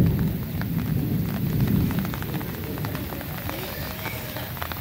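Rain falling, with scattered drop ticks throughout, over a low rumble that is loudest for the first couple of seconds and then eases off.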